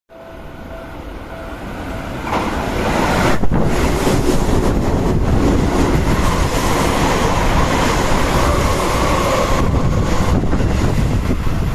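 Seibu 6000 series electric commuter train running past on the track. The noise builds over the first few seconds, then stays loud and steady, with a whine in the middle.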